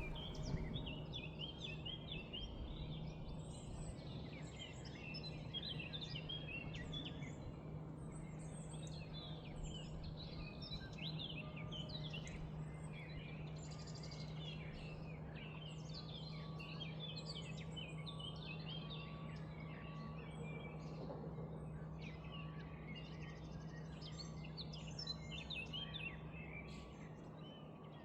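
Several songbirds chirping and singing continuously in quick short notes, over a steady low hum.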